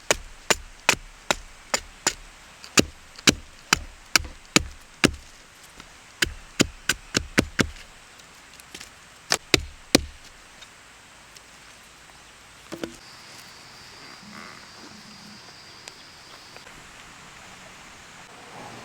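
Wood being chopped: a run of sharp wooden knocks, about two to three strikes a second, with a short pause near the middle. The strikes stop about ten seconds in.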